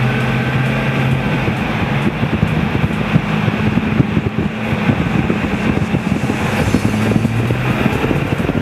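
Supercharged V8 of a 2003 Chevrolet Avalanche Z71 running at a steady speed. Its even engine note is buried under rough noise through the middle and comes back clearly near the end.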